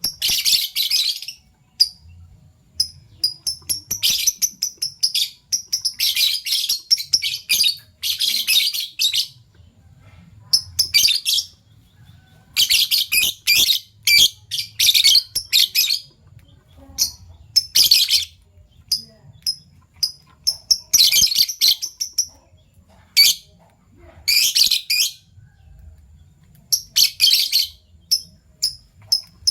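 Fischer's lovebirds calling: bursts of rapid, high-pitched chattering a second or two long, repeated every few seconds, with short single chirps in between.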